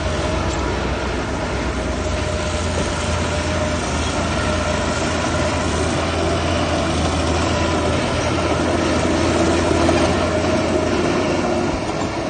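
Heavy earthmoving machinery engine running steadily, a constant low hum with a steady whine above it.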